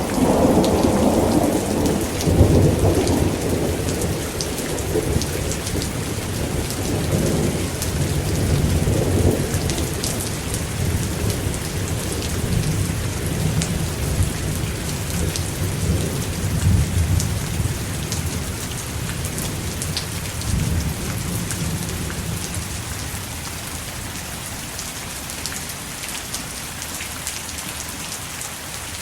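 Steady heavy rain with a long roll of thunder. The thunder rumbles loudest in the first few seconds and fades over about the next twenty, leaving only the rain near the end.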